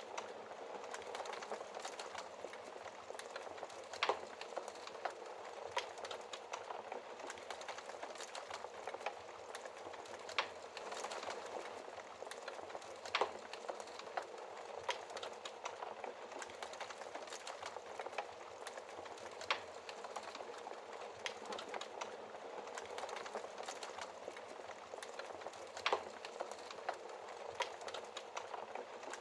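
Wood fire burning in a fireplace: a steady crackle with sharper pops every few seconds.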